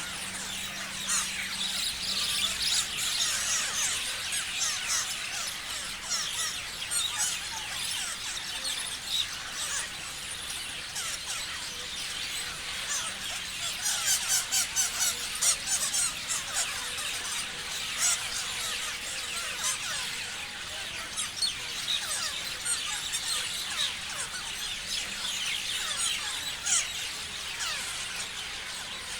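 Many parrots chirping and screeching together in a continuous overlapping chatter of short high calls, with a louder flurry of sharp calls about halfway through.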